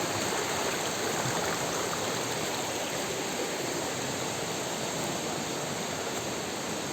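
A river flowing, a steady rush of water.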